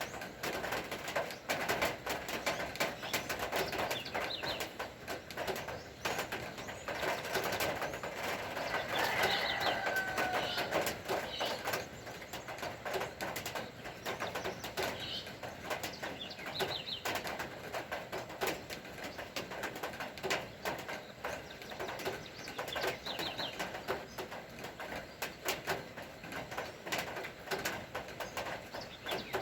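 Birds calling over a steady patter of raindrops: short high chirps come back about every six seconds, and there are lower calls falling in pitch about ten seconds in.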